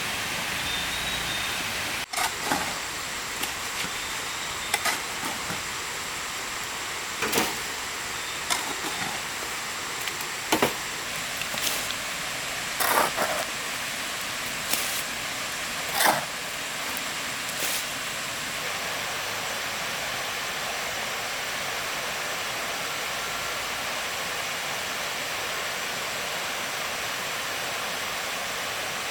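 Steady rush of flowing water, with a scattering of sharp knocks and clacks through the first half or so.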